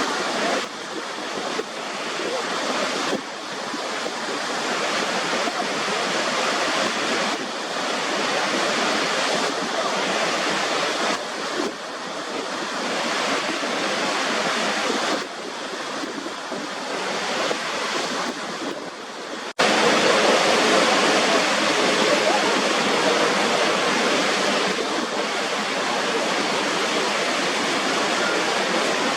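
Niagara Falls' water crashing down: a steady, dense rush of falling water. About two-thirds of the way in it breaks off for an instant and comes back louder.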